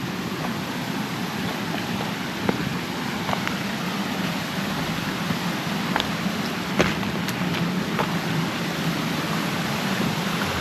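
Steady rush of a hill stream and small waterfalls running down over rocks, with a few sharp clicks scattered through it.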